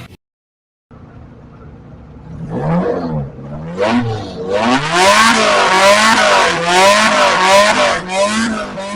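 Off-road 4x4 engine revving hard, its pitch rising and falling again and again as the throttle is worked. It starts faint about a second in after a moment of silence and grows loud about four seconds in.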